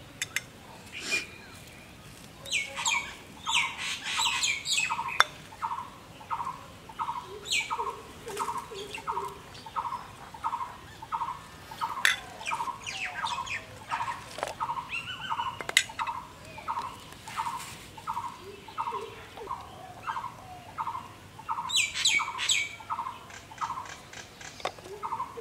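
Birds calling: one bird repeats a short note steadily, a little under two a second, while others break in with bursts of high, falling chirps, busiest about three to five seconds in and again near the end. A few sharp clicks in between.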